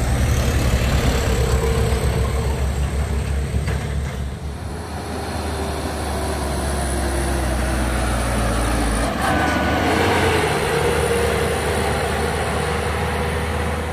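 Heavy truck's diesel engine running loud and close, a deep steady rumble with road noise above it; the deepest part of the rumble eases off about nine seconds in.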